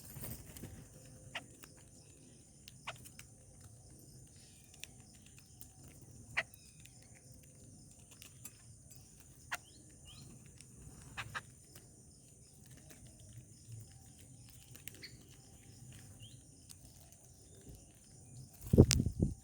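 Outdoor birdsong ambience over a steady, high insect drone, with faint bird chirps and sharp, scattered clicks and taps. Near the end comes one loud thump and rustle.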